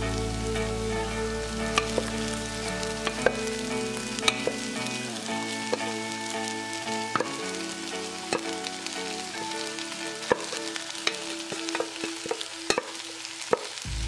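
Diced ham and mixed vegetables sizzling in a nonstick frying pan as cooked brown rice is added, with sharp clicks scattered through. Soft background music with held notes plays underneath.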